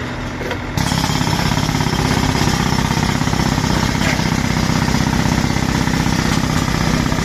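An engine running, which jumps louder about a second in and then runs steadily with a fast, even pulsing.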